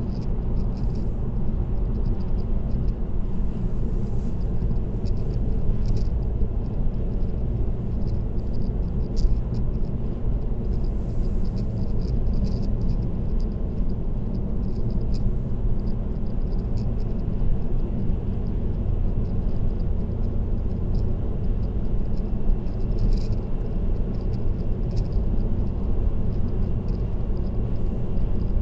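Steady low rumble of tyre and road noise from a car cruising on an expressway, recorded by a dashcam, with faint light ticking above it.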